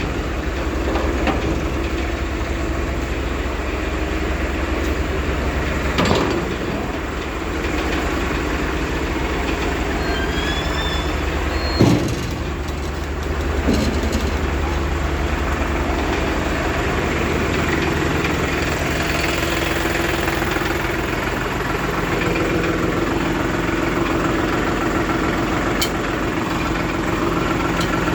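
Diesel engines of a backhoe loader and tractors running steadily, with a few sharp thuds, the loudest about halfway through.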